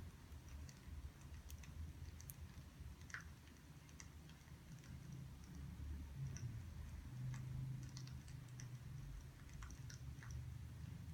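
Quiet wood fire crackling: sparse, irregular small pops and ticks over a low steady rumble.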